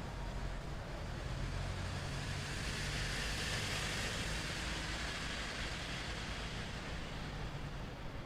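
A road vehicle passing: tyre and engine noise swells to its loudest about halfway through, then fades, over a steady low city rumble.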